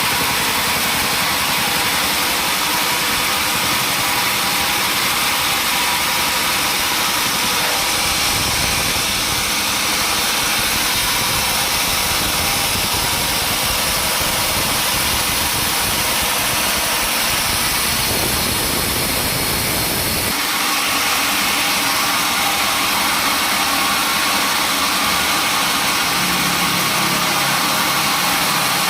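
Sawmill machinery running steadily with a dense, even mechanical noise; about twenty seconds in the low rumble drops away and the sound turns higher and thinner.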